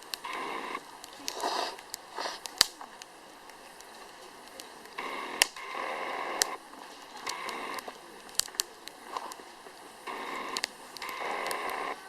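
Firewood burning in a campfire stand, crackling with scattered sharp pops and patches of hissing.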